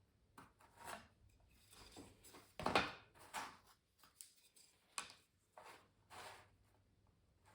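Pencil and measuring ruler on stretched canvas: a string of short scratchy strokes and light taps, the loudest stroke about three seconds in and a sharp tap about five seconds in.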